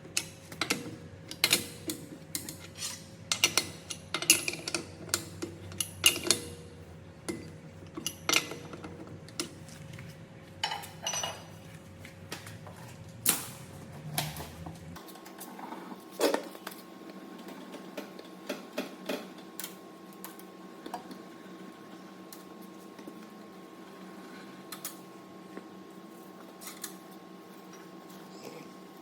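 Metal hand tools and brake parts clinking and knocking: a string of sharp taps and clanks, dense at first and sparser from about halfway.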